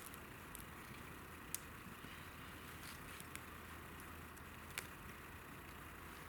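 Wood campfire burning faintly, a steady hiss broken by a few sharp pops.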